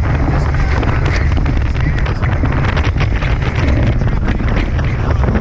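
Strong wind buffeting an action camera's microphone aboard a Tornado catamaran sailing fast, with water rushing past the hulls. The rumble is steady, and there is no let-up.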